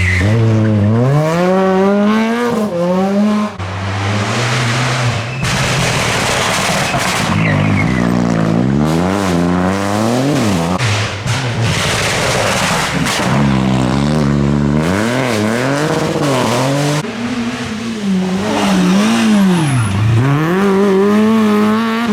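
Rally cars driven hard, one after another, their engines revving high and dropping back again and again through gear changes and braking, with rapid swings in pitch.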